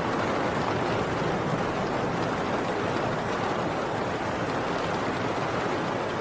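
Heavy rain drumming steadily on a tin roof, a dense, even downpour.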